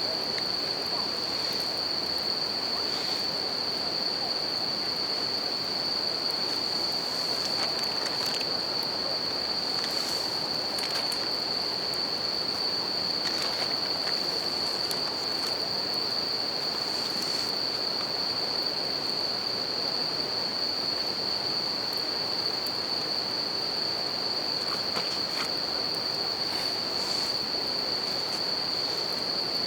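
Bell crickets (suzumushi) singing in a steady high-pitched ring, over the even rush of a river and scattered small crackles from a wood campfire.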